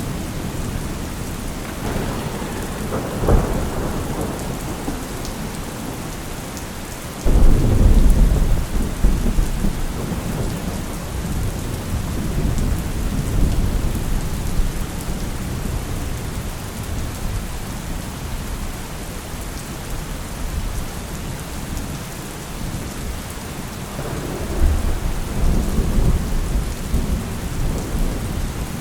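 Steady rain falling through a thunderstorm, with rolls of thunder. A sharp crack comes about three seconds in, then a sudden loud clap about seven seconds in that rumbles on for several seconds, and another rumble builds near the end.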